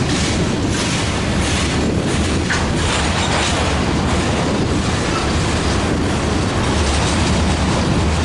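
A freight train rolling past with a steady rumble and rattle of its cars. For the first few seconds there are regular clicks about every half second as the wheels cross rail joints.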